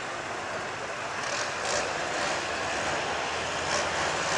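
Gas 4x4 pickup truck's engine running at full throttle while pulling a weight-transfer sled, a dense engine noise that grows gradually louder.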